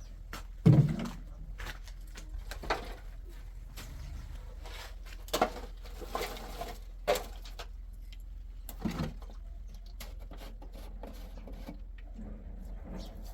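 A few irregular knocks and thumps, the loudest a heavy low thump about a second in, over a steady low hum.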